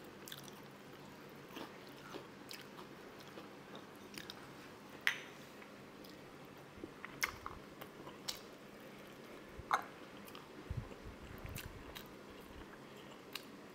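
Close-miked chewing and biting as a woman eats a sausage by hand: quiet wet mouth sounds with scattered sharp lip smacks and clicks, the loudest about five seconds in.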